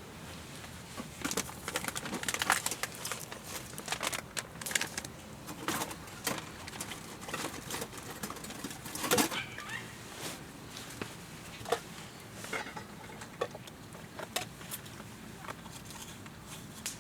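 Wood campfire crackling and popping, with irregular sharp snaps; the loudest pops come about two and a half seconds in and about nine seconds in.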